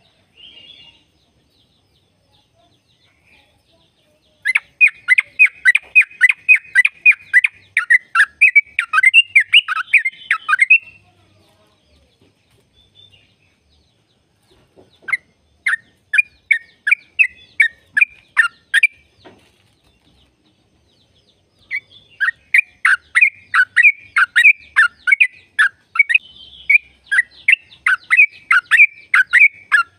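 Yellow-vented bulbul (trucukan) singing its rapid song: three runs of short repeated notes, about three to four a second, with pauses of a few seconds between them.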